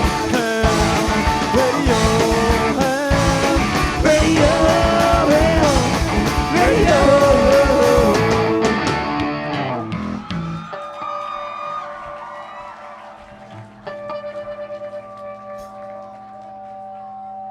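Live punk rock band with electric guitar, drums and a sung lead line playing loud. The song ends about ten seconds in, leaving a few steady notes ringing on quietly.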